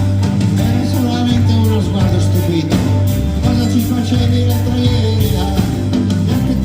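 Live band playing a rock song, steady and loud, in an instrumental passage with no clear vocal line.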